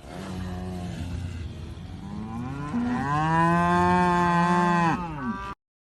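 A cow mooing: one long moo that grows louder about three seconds in and cuts off abruptly near the end.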